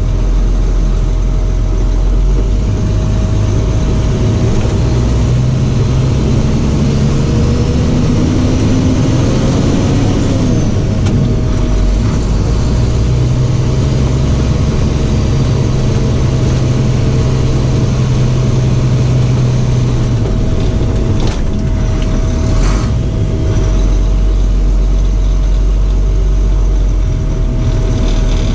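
A box truck with its box removed, under way: the engine runs steadily with road and wind noise, its note dropping and rising a few times as the speed changes. A steady thin whine sounds the whole time.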